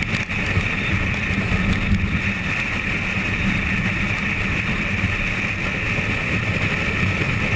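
Steady rumble and hiss of a car being driven at speed, heard from inside the cabin, with road and wind noise.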